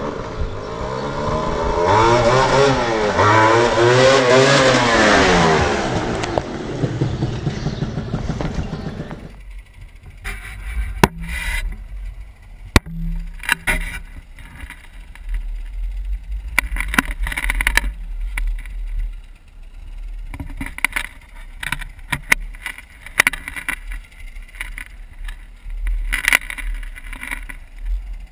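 Yamaha DT 230 Lanza's single-cylinder two-stroke engine revving up and down several times. About nine seconds in, the sound cuts off abruptly to a much quieter low rumble with scattered short noises.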